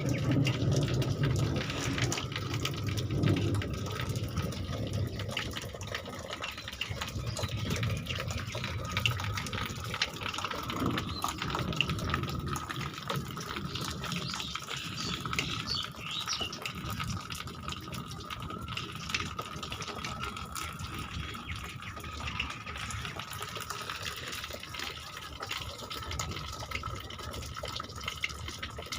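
Water running and splashing steadily, with a faint steady high tone alongside.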